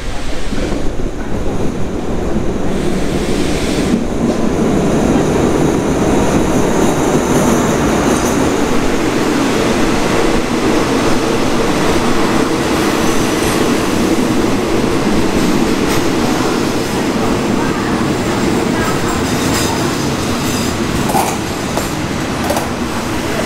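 Passenger train pulling into a station behind an Alsthom diesel-electric locomotive: a steady rumble builds as the locomotive and then the coaches roll past, easing off slightly near the end as the train slows to a stop.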